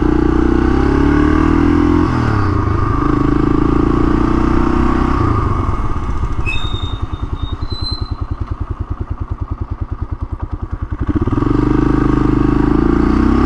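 1982 Honda XL500R's single-cylinder four-stroke engine under way, rising in pitch through two gears. About halfway through it drops to a slow, lumpy beat as the bike slows, with a brief high brake squeal, then picks up again near the end.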